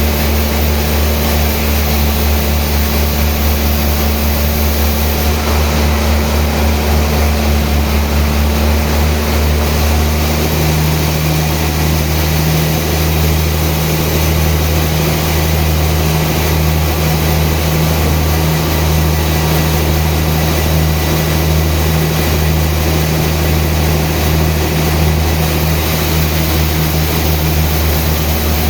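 Engine of sawmill machinery running steadily with a deep, even drone; its note shifts slightly about ten seconds in.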